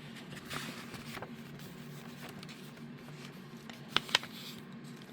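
Faint rustling of paper planner pages being handled, with two sharp clicks about four seconds in, over a low steady hum.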